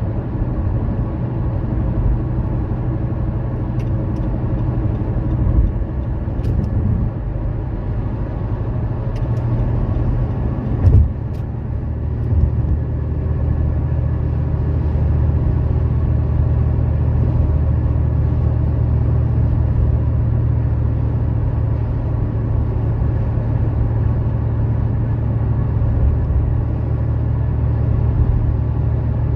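Car driving at motorway speed: steady engine and road rumble, with a few faint clicks and a brief loud thump about eleven seconds in.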